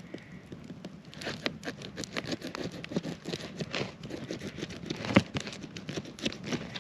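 A pumpkin being cut open and worked by hand: rapid, irregular scraping and crunching, several strokes a second, which thicken about a second in.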